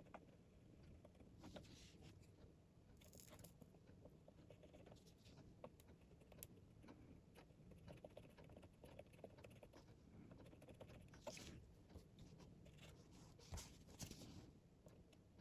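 Faint scraping and small ticks of a metal tool scratching at a printed carbon resistor track on a keyboard circuit board, in short irregular strokes with a few louder scrapes near the end.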